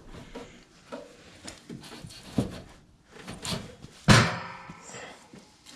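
Metal parts of a furnace blower motor mount being handled and knocked while the screw holes are lined up: several light knocks and clunks, then one loud clank with a short ringing tail about four seconds in.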